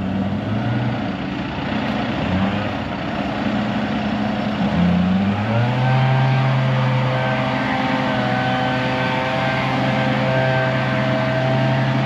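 Engine running, rising in pitch about five seconds in as it speeds up, then holding steady at the higher speed.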